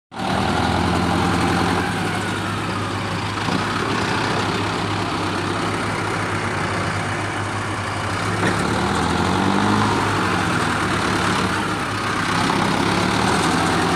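Tractor diesel engine running steadily, its pitch wavering slightly now and then.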